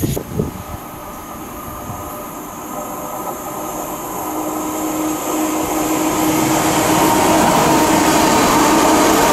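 London Northwestern Class 350 Desiro electric multiple unit approaching and running past along the platform: a rail rumble that grows louder from about four seconds in and stays loud as the carriages go by, with a steady electric motor whine. A couple of low thumps right at the start.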